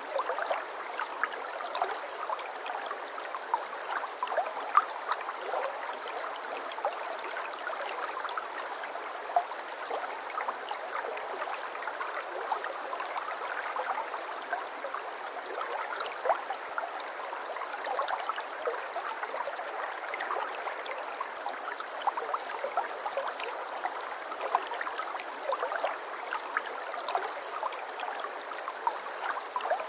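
Shallow babbling brook, water running and splashing steadily over stones, with many small gurgles and splashes.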